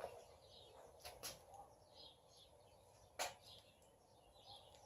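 Near silence with faint, repeated bird chirps and a few sharp clicks, the loudest about three seconds in.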